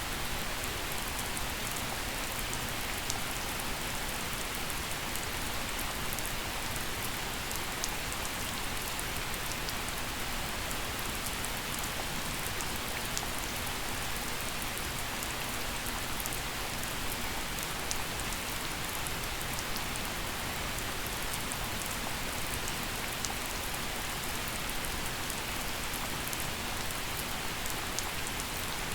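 Steady gentle rain falling on surfaces, an even hiss with scattered individual drop ticks.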